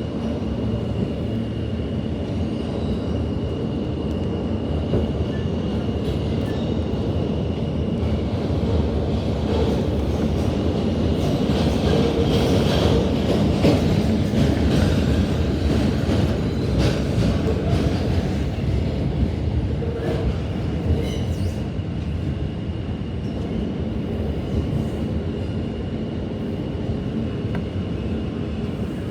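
New York City subway E train running between stations, heard from inside the car: a steady rumble of wheels on the rails. A thin high whine sounds over it at first, fades as the rumble grows louder about a third of the way in, and returns near the end.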